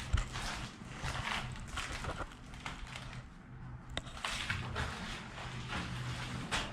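Repeated soft rustling and scuffing, with a sharp click about four seconds in, over a low steady hum.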